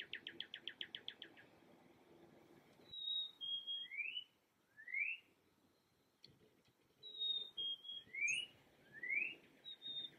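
Songbirds singing: a quick trill of about ten notes at the start, then twice a phrase of two high steady whistles stepping down, each followed by two rising slurred whistles.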